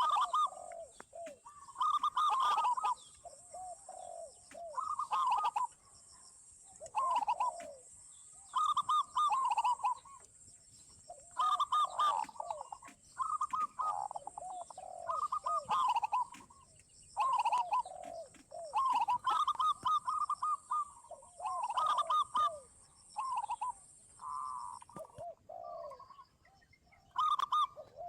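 Zebra doves and spotted doves cooing over and over, several birds overlapping, a burbling phrase every second or two. A steady high-pitched hiss runs beneath and stops near the end.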